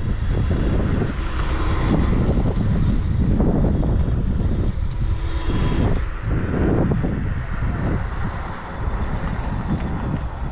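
Wind buffeting the microphone during a ride: a loud, gusting rumble with no clear engine note.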